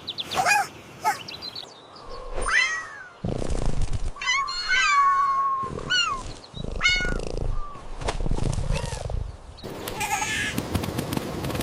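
A cat meowing several times in a row, mostly short calls, with one longer meow that falls in pitch about four to five seconds in.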